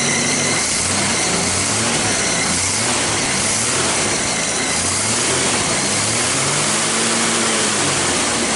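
1968 Ford Mustang straight-six engine running steadily on its freshly rebuilt single-barrel carburetor.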